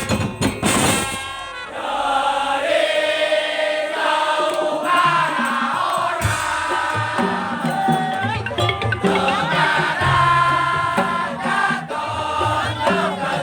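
A Madurese daul (tongtong) band playing live: a melodic line over drums, with a bass line coming in about halfway through.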